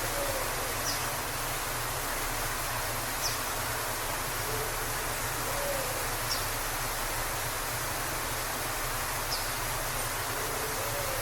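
Waterfall in a forest: a steady rush of falling water. Faint short high bird notes sound over it about every three seconds, with an occasional fainter lower call.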